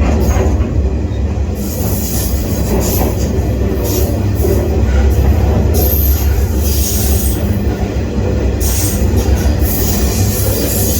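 Freight train rolling, heard from aboard a car: a loud, steady low rumble, with brief high squeals from the wheels now and then.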